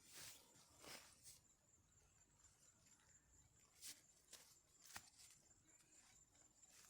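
Near silence, broken by a few faint, brief clicks and rustles: one near the start, one about a second in, and two more around four and five seconds in.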